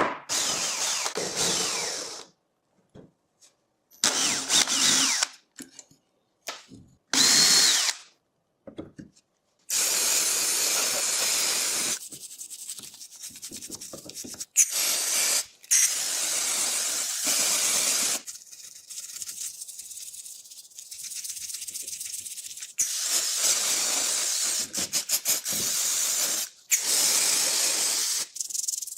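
Handheld power tool running on metal engine parts, heard in a series of short clips that start and cut off abruptly, with brief silent gaps between them.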